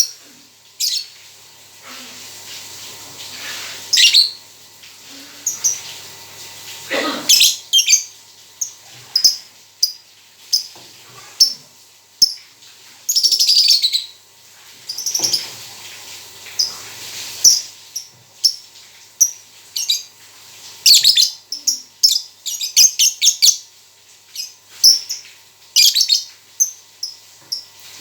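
A pet songbird chirping and singing in short high-pitched calls, broken up by several fast trills.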